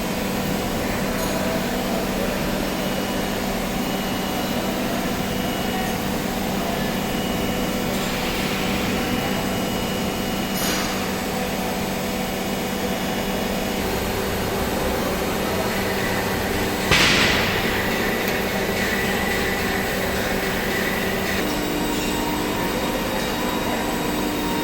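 Bemco 500-ton hydraulic wheel press running with a steady hum that shifts in pitch a couple of times, a few faint knocks, and one loud sharp bang about seventeen seconds in.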